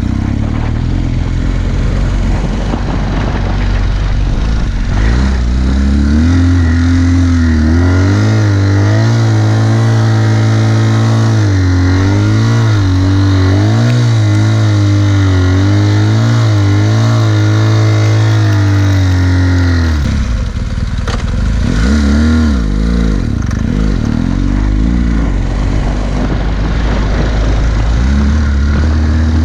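KTM 990 Adventure's LC8 V-twin engine running under load in sand, its pitch rising and falling with the throttle from about six seconds in, dropping off sharply near twenty seconds, then picking up again.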